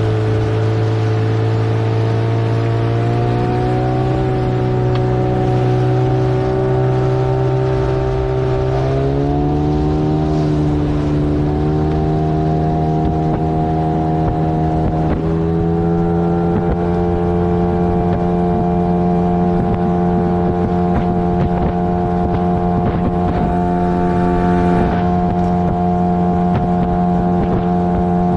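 15 hp outboard motor running under way on an inflatable boat, its pitch stepping up three times as the throttle is opened, then holding steady at the higher speed.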